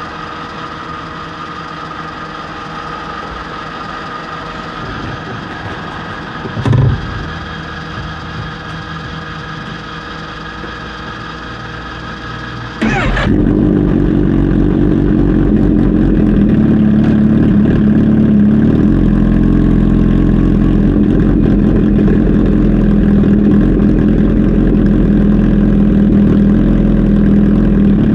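A steady whine and hum with one short loud burst about 7 s in. Then, about 13 s in, a Kawasaki Z H2 SE's supercharged inline-four engine starts and settles into a loud, steady idle.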